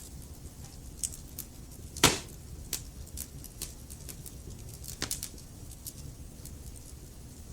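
Wood fire crackling: a steady low rumble of flames with scattered sharp snaps, and a loud pop about two seconds in and another about five seconds in.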